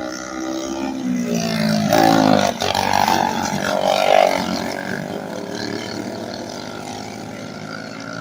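Several small racing engines run hard as the machines pass, their pitch sliding up and down. The sound is loudest from about two to four and a half seconds in.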